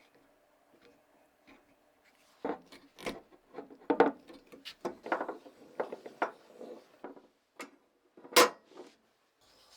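Hand work in a workshop: an irregular run of short scrapes and knocks from handling tools and parts, starting about two seconds in, with the loudest knock near the end.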